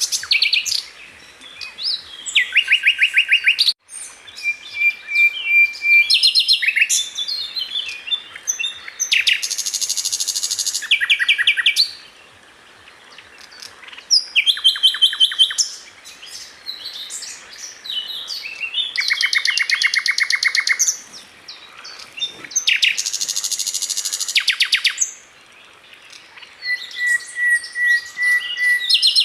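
Sikatan londo flycatcher singing a varied song of fast trills and rattling phrases with short pauses between them, and a held steady whistle twice.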